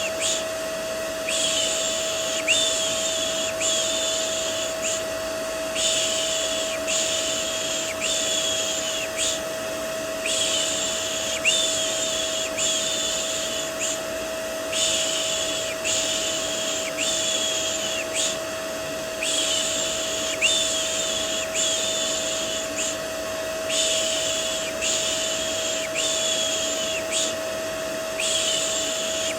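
A shushing voice going "shhh" in sets of three strokes of about a second each, a short pause between sets, over the steady running noise and hum of a vacuum cleaner: a looped white-noise mix for settling a baby to sleep.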